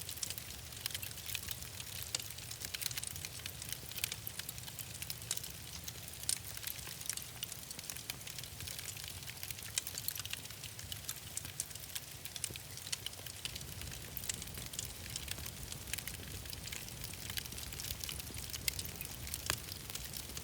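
Wood fire crackling in a fireplace, with many irregular sharp pops and snaps over a low steady rumble.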